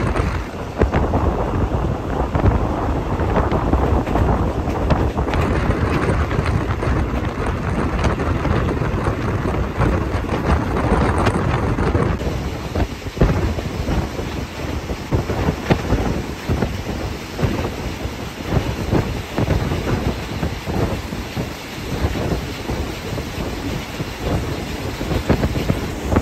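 A moving passenger train heard from inside the carriage with the windows open: wind rushing in and buffeting the microphone over the steady rumble and clatter of the wheels on the track.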